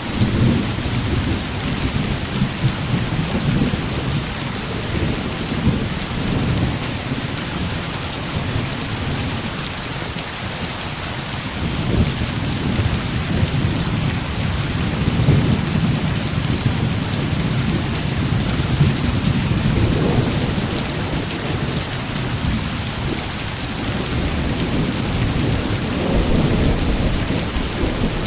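Heavy rain falling steadily as an even hiss, with a low rumble of distant thunder that swells and fades several times.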